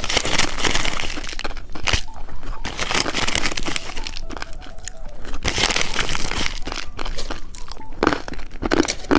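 Candy being eaten close to the microphone: irregular crunching and crackling bites of a foot-shaped candy with popping candy.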